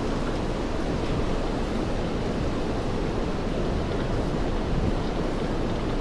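Steady rain falling on wet pavement: an even, unbroken hiss, heaviest in the low end.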